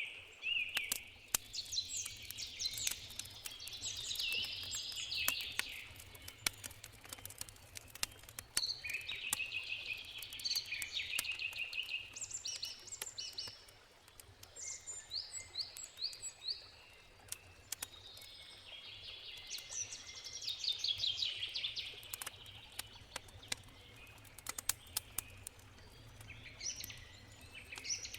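Songbirds singing in repeated chirping phrases over the snapping and popping of a crackling campfire, with a low steady rush of river water beneath.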